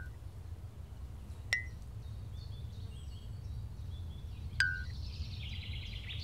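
Birds chirping over a low steady rumble, the calls growing into a denser trill near the end, with a few sharp clicks, each with a brief ping, twice along the way.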